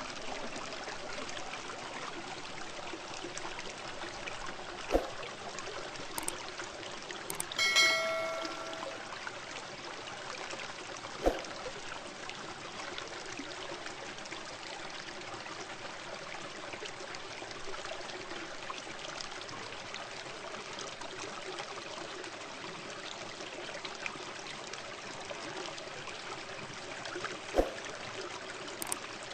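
Aquarium water trickling and splashing steadily, as from a filter outflow or air bubbles. A few sharp clicks and one brief bell-like chime about a quarter of the way in.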